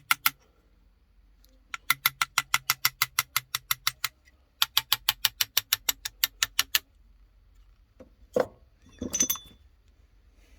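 Ratchet wrench clicking in two quick runs of about two seconds each, about seven clicks a second, as a stuck part is worked loose on a Honda Izy lawnmower. Two short metallic clatters follow near the end.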